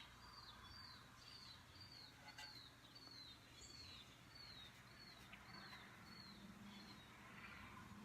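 A bird calling faintly: a short high chirp that slides downward, repeated evenly about twice a second.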